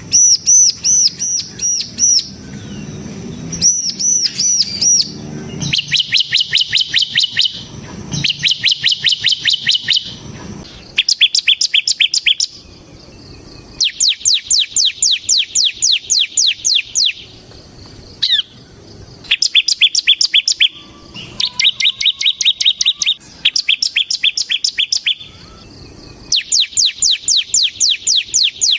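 Bar-winged prinia (ciblek) singing loudly in the rapid, drill-like 'ngebren' style: repeated bursts of fast, evenly spaced high notes, about ten a second. Each burst lasts one to three seconds, with short pauses between, and the song opens with a run of looping whistled notes.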